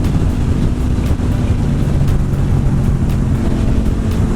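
Motorcycle engine running at steady revs on the move, with wind noise over the microphone.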